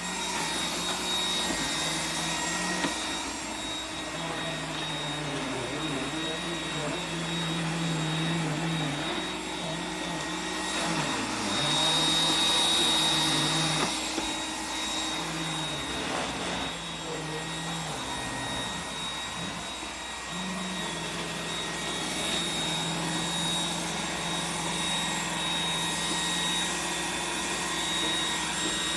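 Roomba robot vacuum running: a steady motor and brush whir with a thin high whine. Its low hum wavers in pitch as it moves, and it grows louder for a couple of seconds around the middle.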